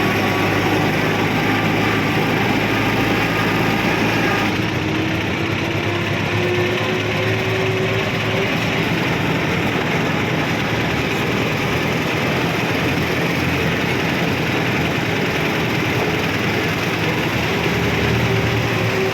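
Mahindra tractor's diesel engine running steadily, its pitch climbing a little a few seconds in.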